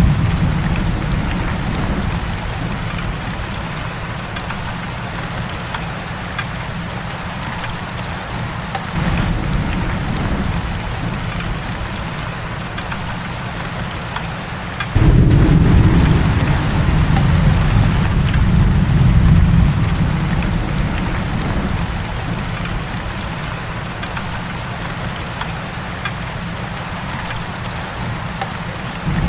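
Heavy rain falling steadily, a dense hiss of drops, over a deep low rumble that swells about halfway through, jumps suddenly louder and then eases off over several seconds.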